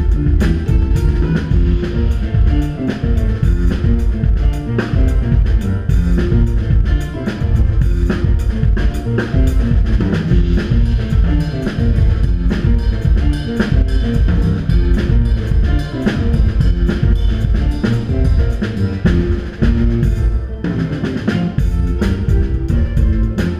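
Instrumental band music: a drum kit playing a steady beat with bass drum and rimshots, under bass, guitar and keyboard.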